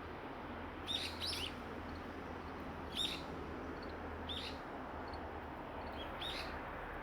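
Small songbirds giving short chirping calls, one or two notes every second or two, over a steady low background hum.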